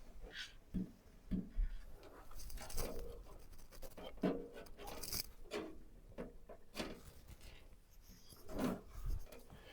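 Hands handling PC parts inside a computer case: irregular knocks, clicks and rubbing scrapes.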